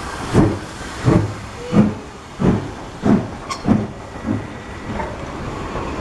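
Steam locomotive arriving and chuffing in a slow, even beat, about three chuffs every two seconds, that fades out after about four and a half seconds. A brief high squeal comes about three and a half seconds in.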